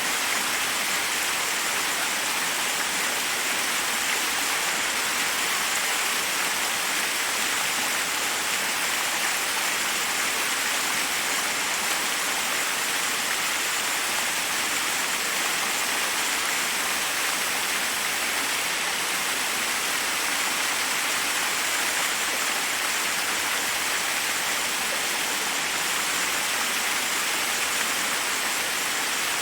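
Waterfall rushing steadily over rocks: a constant, even hiss of falling water.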